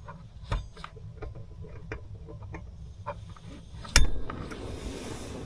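Small clicks and clinks of things being handled, with one loud knock about four seconds in, after which a steady rushing noise sets in.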